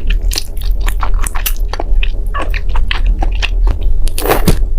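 A person biting and chewing crunchy food close to the microphone: a quick, irregular run of crisp crunches and clicks, with a louder, longer crunch near the end, over a steady low hum.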